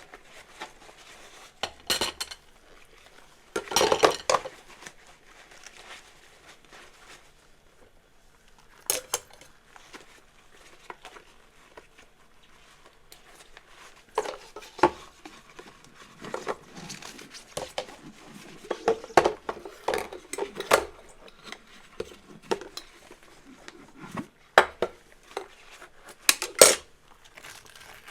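Dishes and cutlery being washed and handled: irregular clinks and knocks of crockery and utensils touching, with a louder clatter about four seconds in.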